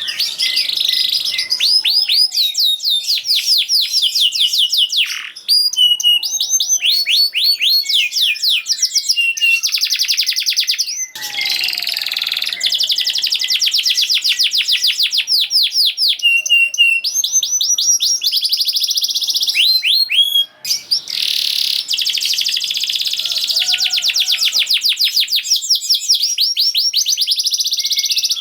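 Domestic canary singing a long, fast song of rapid trills and quickly repeated high notes, broken by a few brief pauses.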